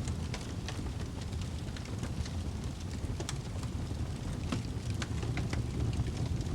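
Wood fire in a fireplace crackling, with irregular sharp pops and snaps over a steady low roar of the flames.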